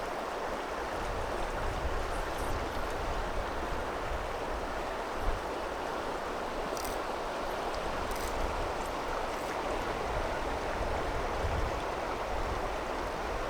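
Steady rush of flowing river water, with a single brief knock about five seconds in.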